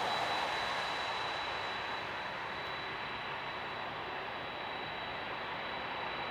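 Airbus A319 jet engines, a steady rushing noise that eases slightly after the first couple of seconds. A thin, steady high tone runs throughout.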